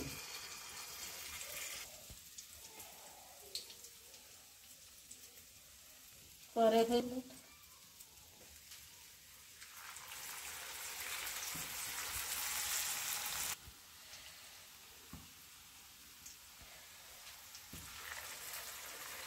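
Whole stuffed brinjals (eggplants) sizzling as they shallow-fry in hot oil in a kadai. The hiss grows louder about ten seconds in, then cuts off suddenly a few seconds later.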